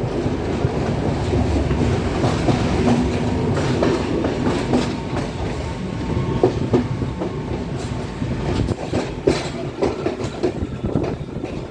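Passenger train running along the track, heard from on board: a steady rumble with the wheels clacking over rail joints. The clacks grow sharper and more spaced out in the second half.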